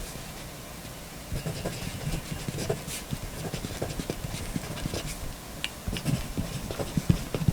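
Pentel AM13 mechanical pencil with thick 1.3 mm lead writing on paper: irregular scratching strokes and small taps, starting about a second and a half in.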